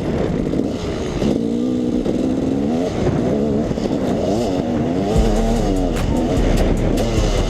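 KTM 300 EXC two-stroke dirt bike engine being ridden off-road, its revs rising and falling over and over as the throttle is worked.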